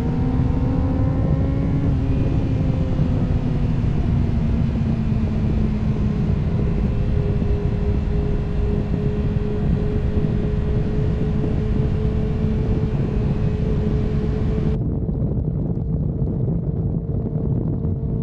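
Honda CB400SF inline-four engine running under way, with wind and road noise. The engine pitch rises for about two seconds, then eases off slightly and holds steady.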